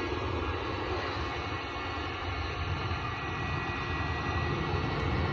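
Electric heat gun running steadily, its fan blowing hot air into the firewood in a fireplace to set it alight, with a steady whine over a low rush of air.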